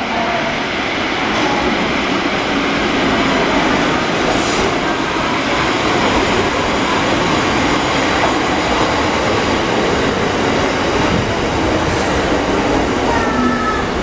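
Kotoden electric commuter train running into a covered station platform: a steady, loud rumble of wheels on rail that builds over the first couple of seconds. Near the end come short, thin brake squeals as it slows to stop.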